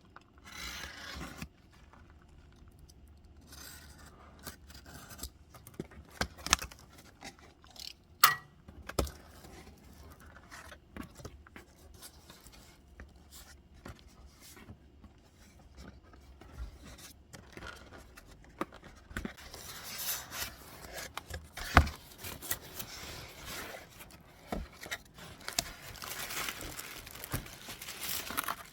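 Hands handling objects: scattered sharp clicks and knocks with scraping and rustling, busier in the last third.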